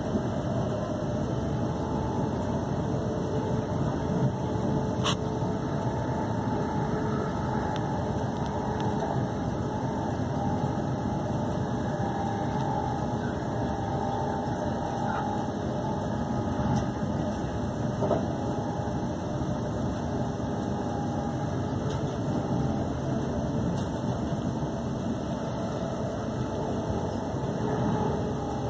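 Cabin sound of a Class 350 electric multiple unit running at speed: a steady rumble of wheels on rail with a faint motor whine and a couple of sharp clicks. It swells briefly near the end as a train passes on the next track.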